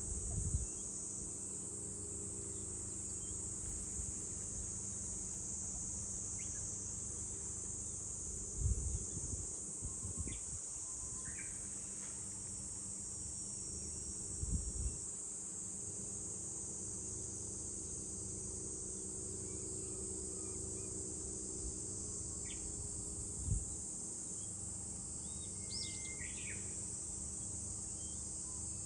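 A steady, high-pitched drone of a summer insect chorus, with a few short bird chirps scattered through it and a brief flurry of calls near the end. A few low thumps break in now and then.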